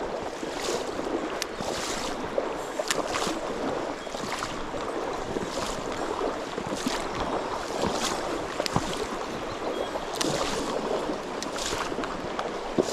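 Small mountain stream running, a steady rushing of water, with splashes and sharp clicks coming irregularly about once a second.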